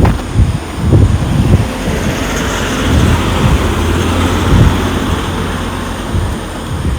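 Wind buffeting the microphone in uneven low thumps, with a steady rushing sound swelling up through the middle and easing off again.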